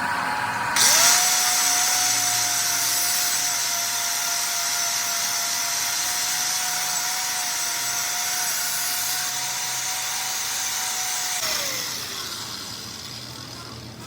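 Electric power tool starting up with a steady high whine and hiss, running evenly for about ten seconds, then switched off and winding down.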